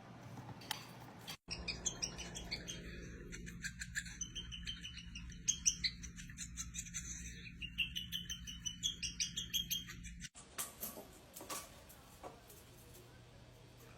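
Birds chirping and twittering in a dense run of quick, high chirps. The sound breaks off abruptly about a second and a half in and again about ten seconds in, leaving only a few scattered calls after that.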